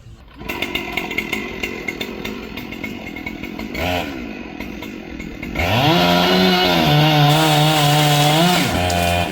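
Two-stroke gasoline chainsaw running. It runs at a low speed with a short blip of throttle, then about two-thirds of the way in revs up to a loud, steady full throttle for about three seconds before dropping back.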